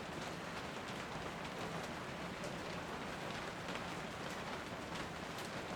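Steady rain falling and pattering on surfaces, with scattered faint drop ticks.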